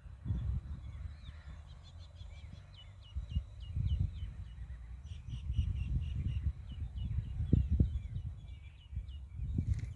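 Small birds chirping in quick series of short, high, downward-hooked calls, over a louder, uneven low rumble.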